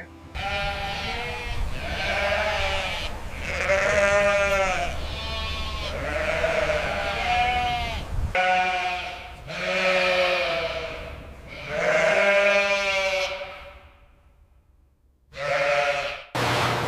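Goats bleating over and over, about nine long wavering calls one after another, with a brief pause shortly before the last one.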